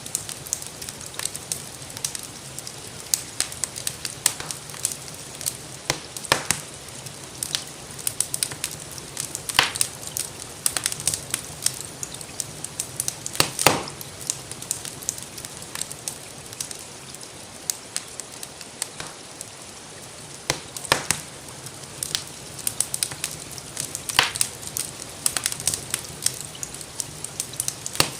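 Wood fire crackling steadily in a fireplace, with frequent small snaps and a few louder pops, over a soft hiss that includes gentle rain.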